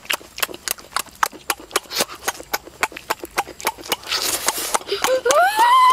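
Close-up wet chewing and lip-smacking on a sauced chicken wing, a run of sharp smacks about three a second. About five seconds in, a high tone rises and then starts to fall.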